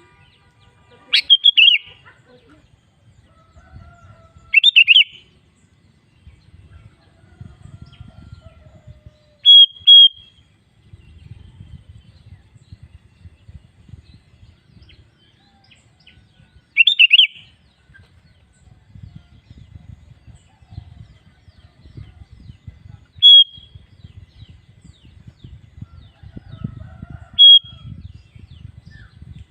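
Sooty-headed bulbul giving short, loud, clear call phrases, about seven in all, spaced a few seconds apart, two of them close together about ten seconds in. A faint low rumble runs underneath between the calls.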